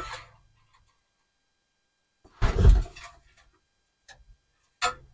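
A dull knock with a short rustle about two and a half seconds in, then a couple of faint clicks and one sharp click near the end.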